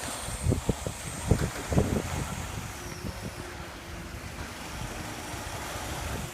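Wind buffeting the microphone over a low, steady rumble, with a few short thumps in the first two seconds.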